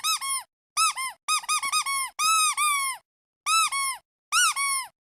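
Squeaky duck toy being squeezed repeatedly: short high squeaks, each rising and falling in pitch, coming in quick bursts of two or more with brief pauses between, stopping near the end.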